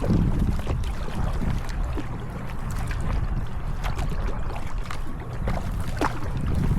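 Wind buffeting the microphone out on the water, a steady low rumble, with scattered small splashes and ticks of water from kayak paddling.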